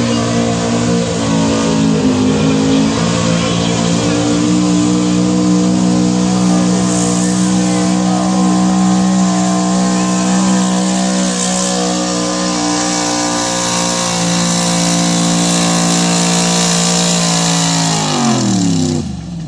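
Pulling tractor's diesel engine held at high, steady revs under heavy load, then throttling down near the end, its pitch falling as the run finishes.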